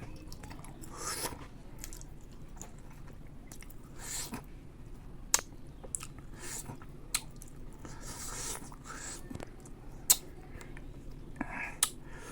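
A person chewing and biting bayberries close to the microphone: irregular wet chewing with a few sharp clicks.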